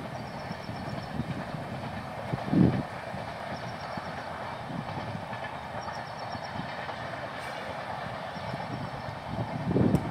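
Passenger train running over a bridge: a steady rumble with wheel clatter, and a brief louder thump about two and a half seconds in.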